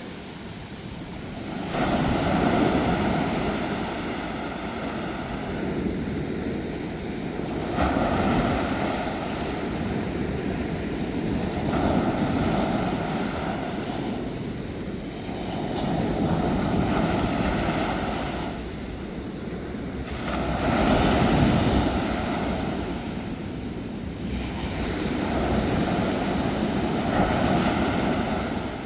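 Ocean waves breaking and washing on the shore, one surge after another about every four to six seconds, each swelling and then drawing back.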